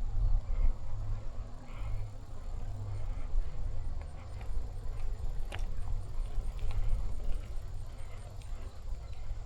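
Wind buffeting a helmet-mounted camera's microphone while riding a bicycle, a rough, uneven rumble, with a few faint clicks and one sharper click about halfway through.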